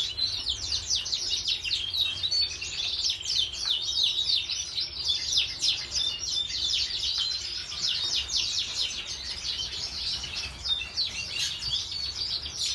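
A flock of small cage birds chirping and twittering all together, a dense, continuous chatter from flights full of nesting birds.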